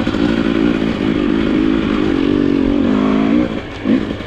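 Dirt bike engine pulling under load over rocky ground, its pitch holding and shifting with the throttle. Near the end the engine note drops away, then comes a quick short rev.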